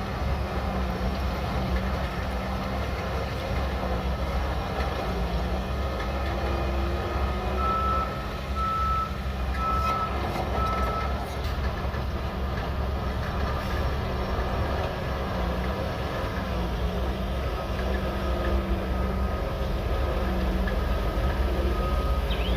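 Shantui DH17C3 bulldozer's diesel engine running steadily, with its reversing alarm beeping about once a second: a run of four beeps about a third of the way in, and more beeps again near the end.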